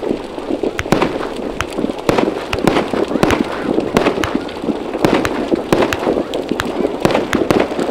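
Fireworks and firecrackers going off all around: irregular sharp cracks and pops, several a second and of varying loudness, over a continuous background murmur.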